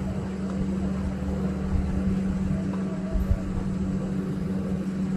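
Steady low mechanical hum with a constant tone and a rumble beneath it.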